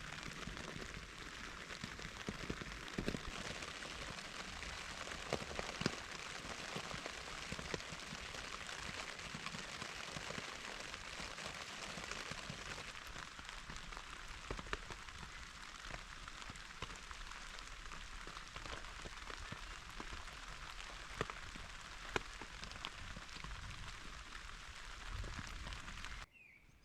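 Steady rain pattering on the tent's fabric, heard from inside the tent, with single heavier drops ticking now and then. It breaks off abruptly near the end.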